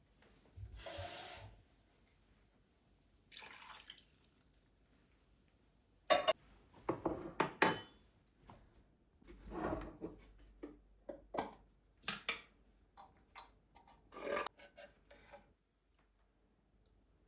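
Kitchenware being handled: dishes and utensils knock and clink at irregular intervals, with a short burst of noise about a second in.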